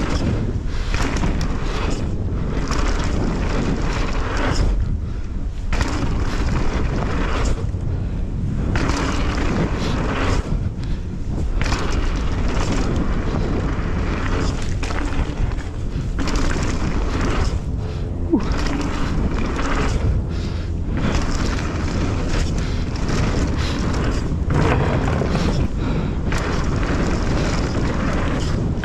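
Wind rush and low rumble on a GoPro's microphone while a mountain bike is ridden fast downhill over a dirt jump trail, with tyre and trail noise that rises and dips throughout.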